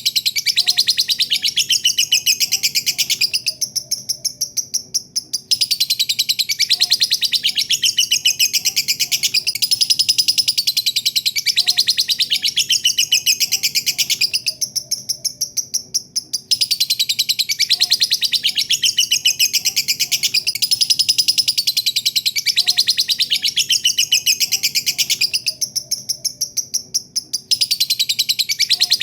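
Lovebird's long 'ngekek' song: a rapid, unbroken chattering trill of high notes, briefly softer for about two seconds three times, roughly every eleven seconds.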